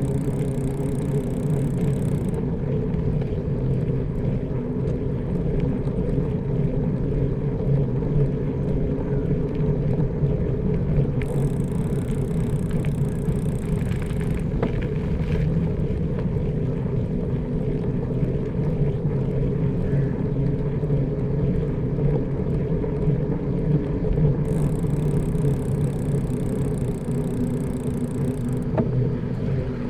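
Steady low rumble of a bicycle ride along a village road: tyre and road noise with wind on the microphone, unbroken throughout.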